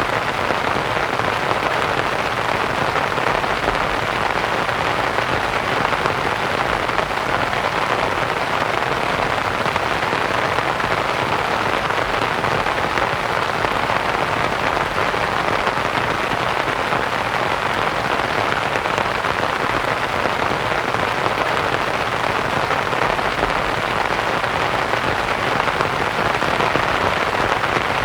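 Steady rain pattering on a canvas tent, blended with soft white noise into one even hiss.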